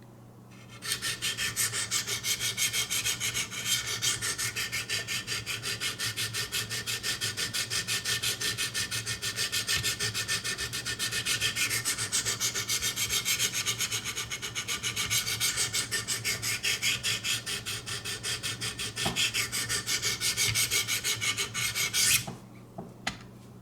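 Diamond sharpening stone scraped back and forth along a VG-10 knife edge in quick, even strokes, about four a second, grinding to raise a burr along the whole blade. The strokes stop abruptly near the end, followed by a couple of light clicks.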